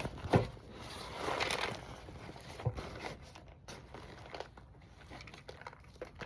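Rustling and crinkling of a plant-dyed yarn bundle being unwrapped and handled. A sharp knock comes about a third of a second in, with a smaller one about two and a half seconds in, then quieter scattered rustles.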